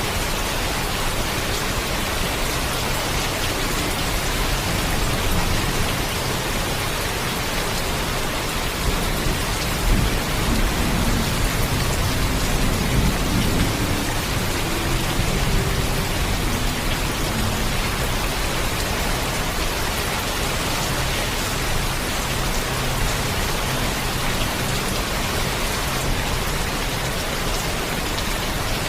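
Steady heavy rainfall, with a low rumble of distant thunder swelling about a third of the way in and fading away over several seconds.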